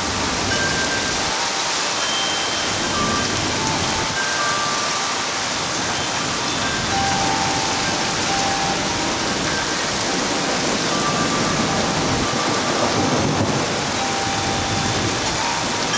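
Steady heavy rain falling, with a low rumble of thunder swelling up about three quarters of the way through.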